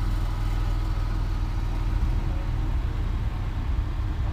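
A car engine idling with a steady low rumble and no revving.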